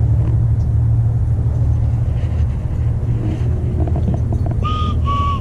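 A steady low rumble, with a dog whining a few short high-pitched times near the end.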